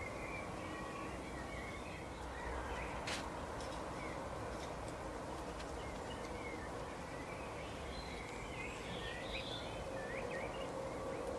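Small garden birds chirping and calling in short scattered notes over steady outdoor background noise with a faint hum. There is a single sharp click about three seconds in.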